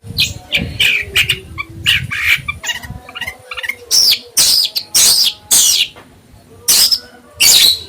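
Caged songbird calling over and over in loud, sharp, high notes. Through the first half the notes come quickly and more softly; from about halfway they turn into louder downward-sweeping calls, roughly one or two a second.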